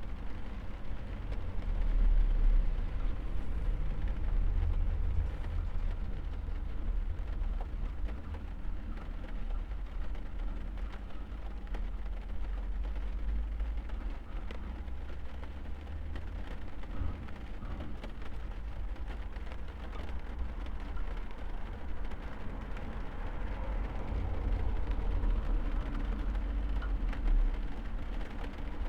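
Rain falling on a car, heard from inside the cabin: a steady hiss of drops on the roof and glass over a deep low rumble, swelling slightly a couple of times.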